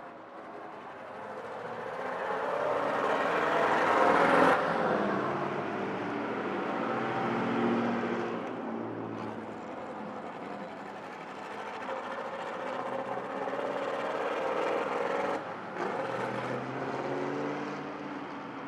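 Vintage straight-eight car engine running. It grows louder over the first four seconds or so, drops away sharply, then swells again before cutting off suddenly a few seconds before the end.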